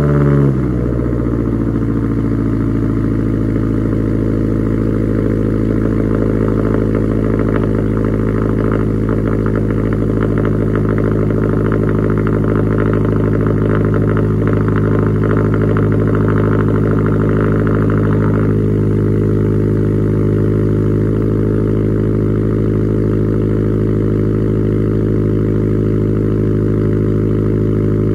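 Subaru WRX STI's turbocharged flat-four, fitted with equal-length headers, downpipe and Tomei exhaust, at a steady high cold-start idle after sitting for two months. A rasping upper layer in the sound stops about eighteen seconds in while the idle carries on.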